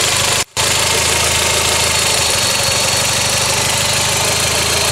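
Toyota Celica GT-Four ST205's 3S-GTE turbocharged two-litre four-cylinder idling steadily in the open engine bay, sounding healthy with no strange noise. The sound cuts out for a moment about half a second in.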